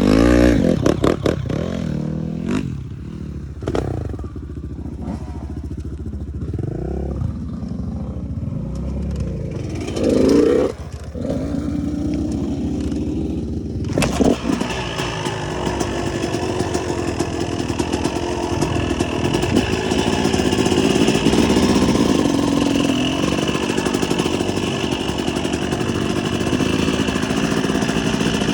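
Motocross dirt bike engine running with a few revs rising and falling, one louder burst of throttle about ten seconds in. About halfway through a rushing noise sets in on top of the engine, which runs on steadily as the bike rides.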